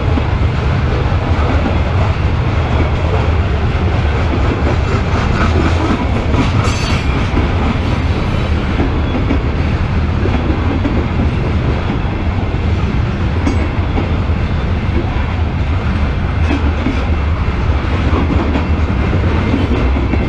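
Freight train of covered hopper cars rolling past close by at speed: a steady, loud rumble and clatter of steel wheels on the rails.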